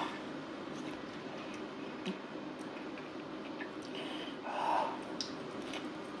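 Close-miked chewing and small wet mouth clicks of a person eating pizza and wings. There is a short breath about four and a half seconds in.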